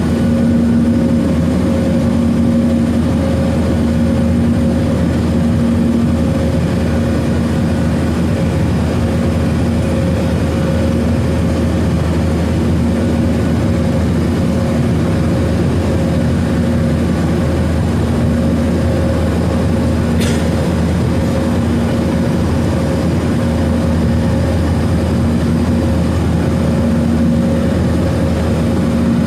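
Steady cabin drone of a Boeing 737-900ER's CFM56-7B jet engines and airflow, a deep rumble with a constant low hum. There is one brief click about twenty seconds in.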